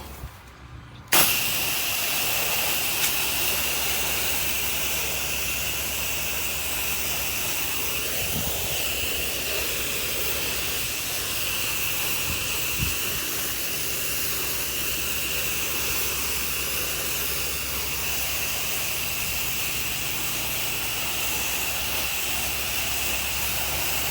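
Pressure-washer spray wand opening about a second in, then a steady, even hiss of spray as a coat of cleaning solution goes onto vinyl siding. A steady machine hum runs underneath.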